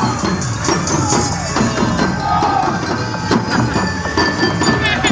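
Many wooden teklek clog sandals clacking on the road as a group marches, amid loud music and crowd voices.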